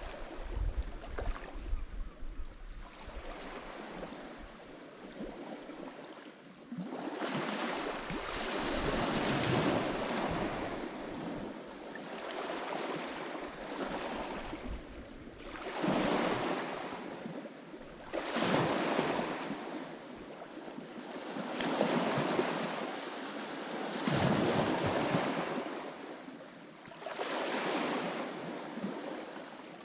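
Lake Michigan waves washing onto the shore, one surge after another every few seconds, each rising and falling away. Low wind rumble on the microphone in the first couple of seconds.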